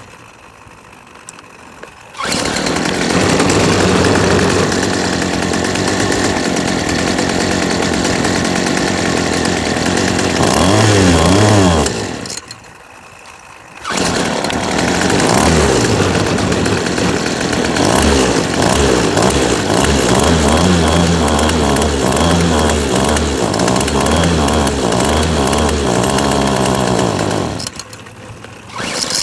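Two-stroke engine of a 25cc Yardworks string trimmer running on a newly fitted carburetor, revving up and down while it is set up, with three brief breaks where the engine sound drops away and comes back.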